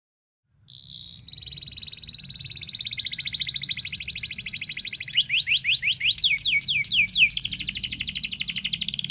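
Domestic canary singing, starting about half a second in: a rapid high trill of repeated notes, then a run of quick downward-sweeping notes about five a second, then another fast trill.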